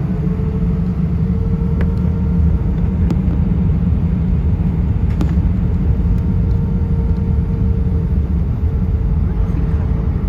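Steady cabin noise inside an Airbus A320: a deep, even rumble of engines and airflow with a steady hum over it.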